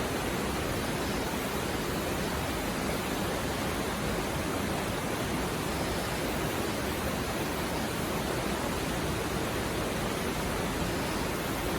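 Mountain river stream flowing over rocks: a steady, even rush of water.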